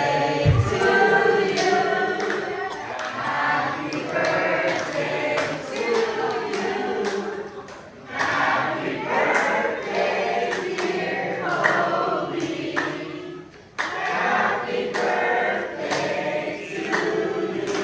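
A group of people singing together without instruments, broken off twice, about 8 and 14 seconds in.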